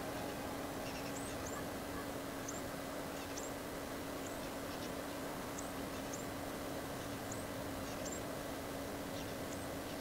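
Small birds chirping: short, high, thin notes about once a second, over a steady background rush and a faint steady hum.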